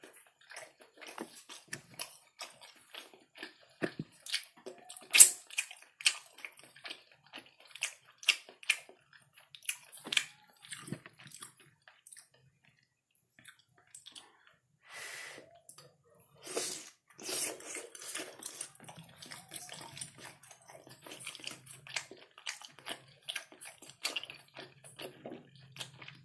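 Close-up wet chewing and lip smacking while eating kerupuk basah (temet), a soft, chewy fish-and-sago cake. The sound comes as irregular clicks and squelches, with a short quiet pause near the middle.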